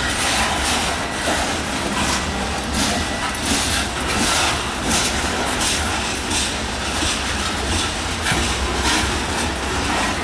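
Covered hopper cars of a slow freight train rolling past, their steel wheels clicking over the rail joints about once a second over a steady low rumble.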